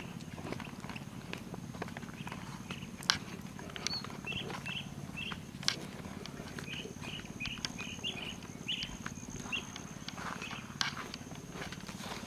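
Small birds chirping in short notes, repeated in little clusters, over a steady low hum and a thin, steady high tone. A few sharp clicks stand out, the loudest about three seconds in and again near the six-second mark.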